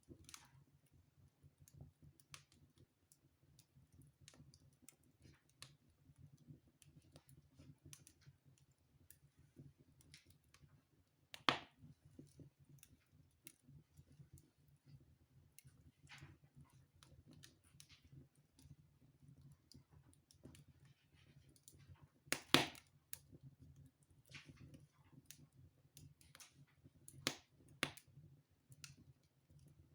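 Wood fire crackling in a fireplace: faint scattered crackles, with a few louder pops about a third of the way in, about two-thirds in and near the end.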